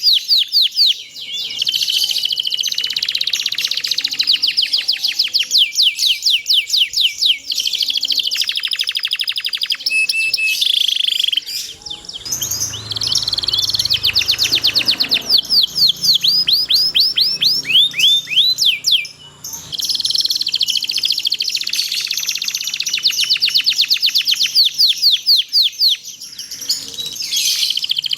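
Domestic canary singing long, unbroken rolls: rapid trills of fast repeated notes, changing from one trill to the next every second or two with only brief breaks.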